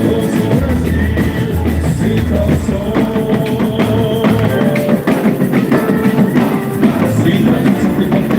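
Live boi-bumbá toada music played loud by a band, driven by heavy drumming and percussion under held instrumental notes.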